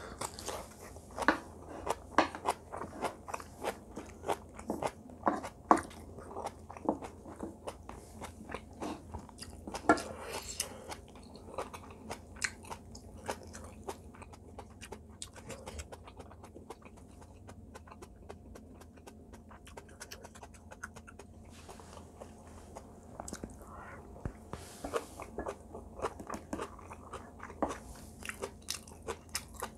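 Close-miked eating sounds: chewing and crunching of braised kimchi cabbage and rice, with quick wet mouth clicks and smacks in uneven bursts. They are busiest in the first dozen seconds, thin out in the middle, and pick up again near the end.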